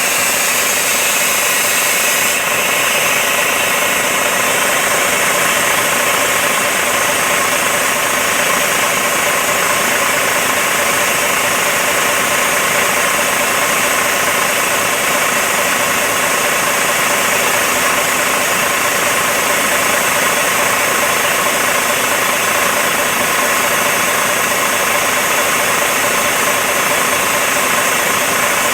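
IVECO/ASTRA 8x8 truck standing with its engine idling, under a loud, steady hiss of air as the central tyre inflation system deflates the tyres. About two seconds in, the highest part of the hiss drops a little and then holds.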